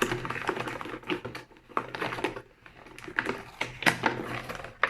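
Cardboard and plastic toy packaging being opened and handled: irregular clicks, taps and crinkles.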